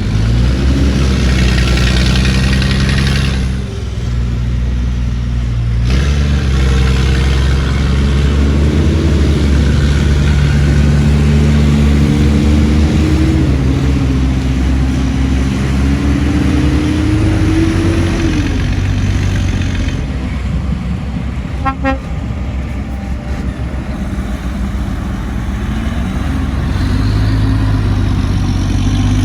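Heavy diesel engines of earthmoving machines, a bulldozer and dump trucks, running under load, their pitch rising and falling as they rev. A short horn toot sounds about three-quarters of the way through.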